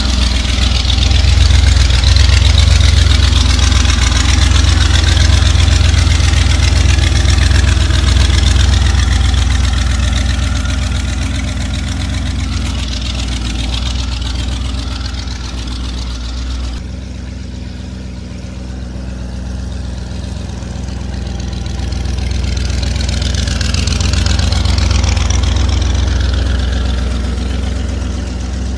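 V8 engine of a chopper trike running loudly under way. It eases off a little past the middle, then builds again near the end.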